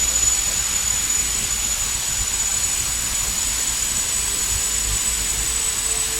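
Steam locomotive venting steam: a loud, steady hiss with a thin high whistling tone in it.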